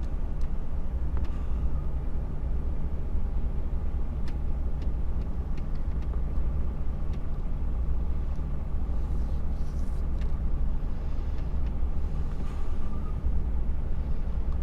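HGV truck's diesel engine running steadily under way at low speed, heard from inside the cab, with a few faint rattles and clicks.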